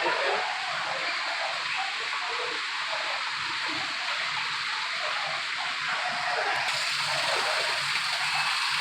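Steady rushing of falling water, like a waterfall, growing a little brighter and louder near the end.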